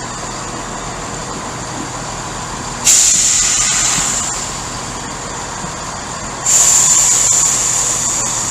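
Train standing at the platform with its engine running, and two sudden loud blasts of compressed-air hiss from its air brakes, about three seconds in and again about six and a half seconds in, each fading away over a second or two.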